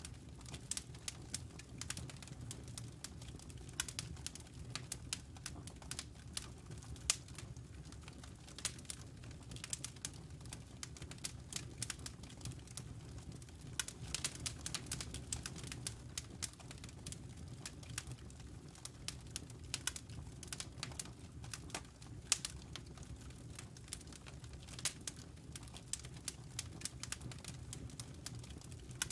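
Campfire crackling: wood and embers burning with a dense, irregular stream of sharp pops and crackles over a low steady rumble.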